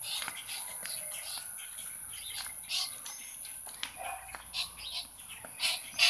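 Small birds chirping faintly: a few short, scattered chirps.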